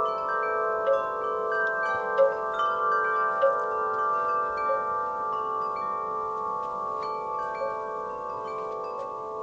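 Metal wind chimes ringing in a breeze: irregular strikes every half second or so, each tone held long and overlapping the others into a sustained shimmer, with faint wind noise beneath.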